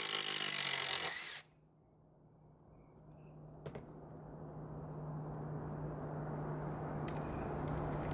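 Cordless impact driver running under load, hammering, then stopping abruptly about a second and a half in. After that comes a low, steady hum that slowly swells.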